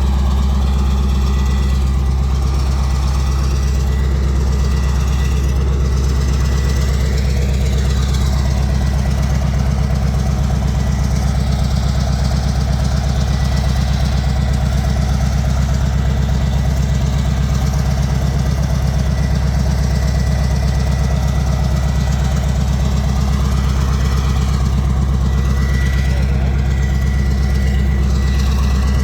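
PzH 2000 self-propelled howitzer's V8 diesel engine running steadily at idle, a deep even rumble with a thin steady whine above it.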